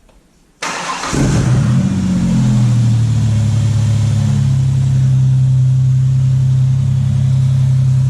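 1998 Ford Ranger engine started: a short crank, then it catches about a second in, revs up briefly and settles into a steady idle, running on a freshly fitted serpentine belt and tensioner.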